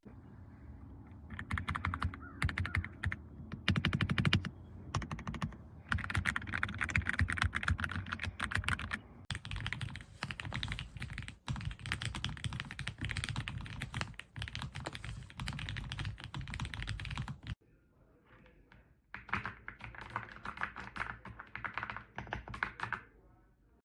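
Typing on a mechanical keyboard: rapid runs of key clicks and thocks. They stop for about a second and a half just before the end, then start again.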